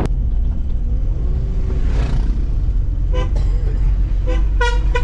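Vehicle horn tooting in short blasts: one about three seconds in, then a quick few near the end. Under it is a steady low rumble of a vehicle on the move.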